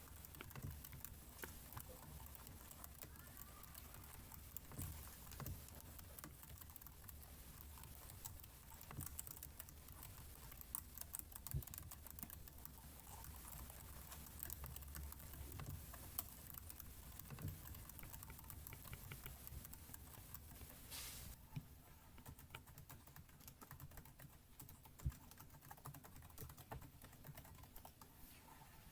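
Faint computer-keyboard typing: irregular light key clicks and taps throughout, with one short scratchy hiss about two-thirds of the way through.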